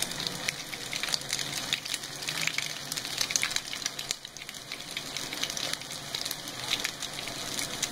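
Chicken shami kebabs shallow-frying in oil in a pan: a steady sizzle with scattered small pops and crackles.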